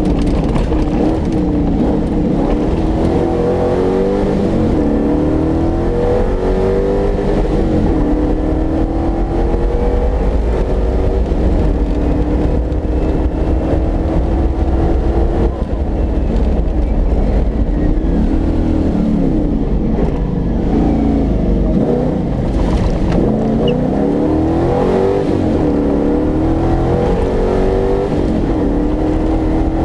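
Competition off-road car's engine at race pace, revving up and dropping back again and again as the driver accelerates, shifts and lifts, over a heavy low rumble.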